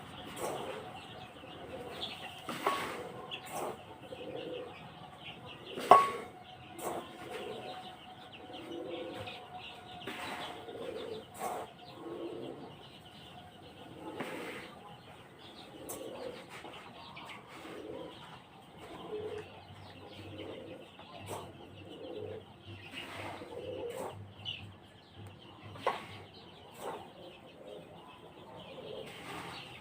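A flock of young Sonali chicks calling and flapping their wings, with scattered clicks and knocks. A sharp knock about six seconds in is the loudest sound.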